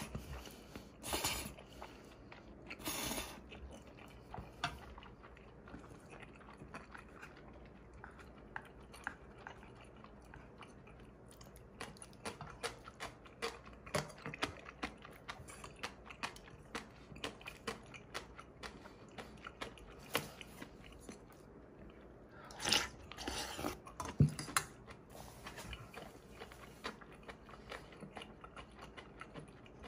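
A person chewing close to the microphone, eating black-bean instant noodles, crunchy pickled radish and cold soup: soft crunching and wet mouth clicks, with a few louder bursts near the end.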